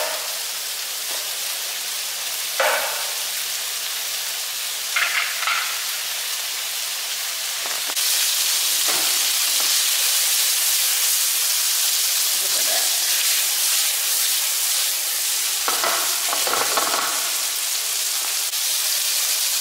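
Tiger prawns sizzling in hot oil in a non-stick frying pan, with a plastic spatula scraping and stirring them in a few short strokes. The sizzle gets louder about eight seconds in.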